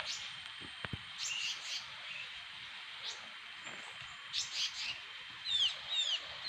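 Forest birds calling: scattered short high chirps, then near the end a quick series of three or four downward-sliding whistles.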